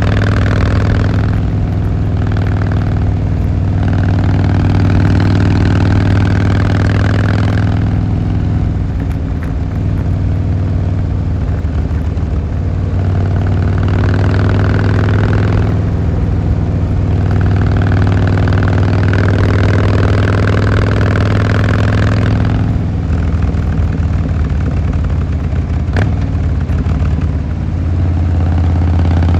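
Harley-Davidson Fat Boy Lo's V-twin engine and exhaust running under way. The exhaust note shifts with the throttle a few times.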